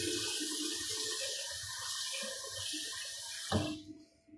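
Kitchen tap running steadily into a sink, then shut off with a knock about three and a half seconds in.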